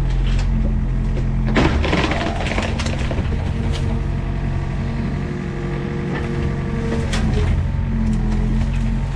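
Mini excavator's diesel engine running steadily under work, with a loud crash of breaking wood or brush about a second and a half in and a higher whine joining in the middle.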